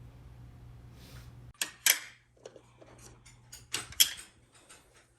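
Dishes and utensils being handled, with several sharp clinks and knocks; the loudest come about two and four seconds in. A steady low hum stops abruptly about a second and a half in.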